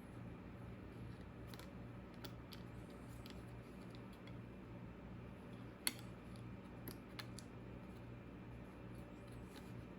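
A few scattered light clicks and taps, with one sharper click about six seconds in and two smaller ones about a second later, over a steady low hum.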